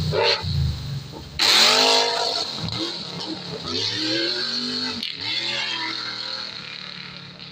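Off-road rally car's engine revving up and down as it accelerates and changes gear, with a loud surge about a second and a half in.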